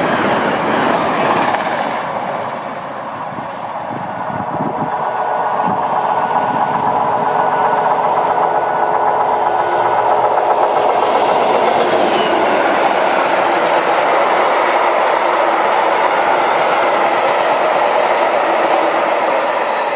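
The tail of a Class 802 bi-mode unit rushing past at speed. After a short lull a diesel locomotive approaches and passes close by, its engine running, hauling a long train of tank wagons whose wheels clatter over the rail joints.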